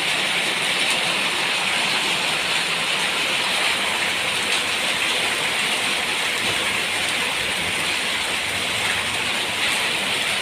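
Hail and heavy rain falling steadily, a dense even clatter with no let-up.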